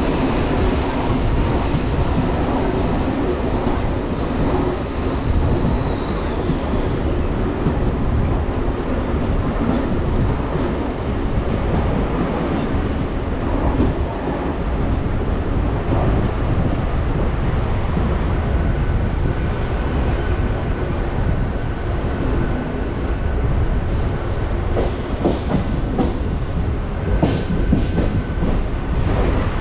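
Electric suburban train running, with a continuous rumble. A high whine slides down in pitch over the first several seconds. A faint steady tone comes in about two-thirds of the way through, and a few sharp clicks sound near the end.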